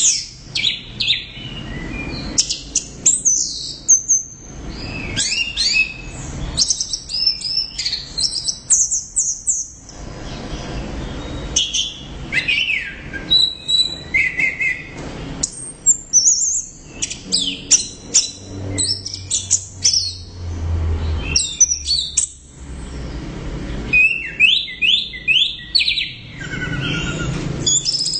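Orange-headed thrush singing in full voice: a fast, varied stream of high whistled and chattering phrases, with short pauses between runs.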